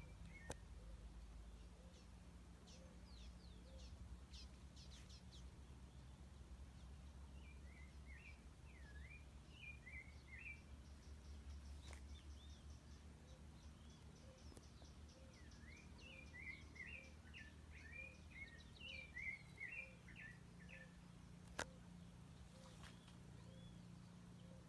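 Birds singing faintly outdoors: several short bursts of quick warbling chirps and a run of thin high notes, over a low steady rumble. A faint note repeats about once a second, and a sharp click stands out about three seconds before the end.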